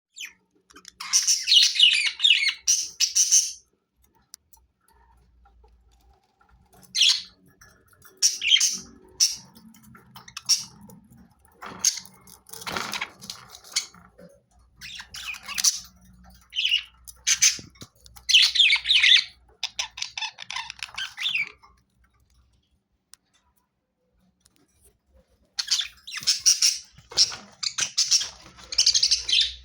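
Pet budgerigars chirping and chattering in bursts of a few seconds, with short quiet gaps between them.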